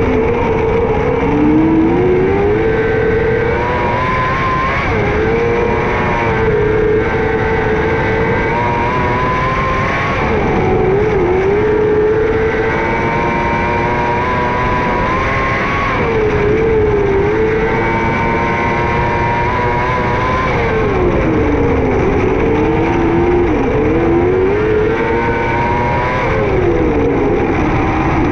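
A 600cc micro sprint car's motorcycle four-cylinder engine at racing revs. Its pitch drops and climbs again every few seconds as the driver lifts for each corner and gets back on the throttle down the straights.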